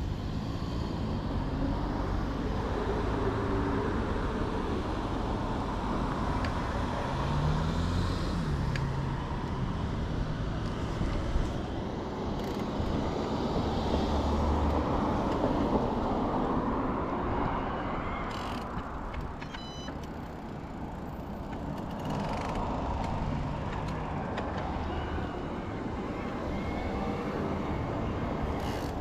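Road traffic passing alongside a moving e-bike, with wind rushing over the microphone. A few short high chirps sound about two-thirds of the way through.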